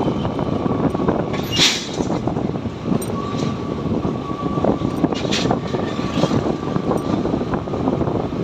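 Road traffic and engine noise: a steady dense rumble, with a faint held tone through the middle and two short hisses, about one and a half and five seconds in.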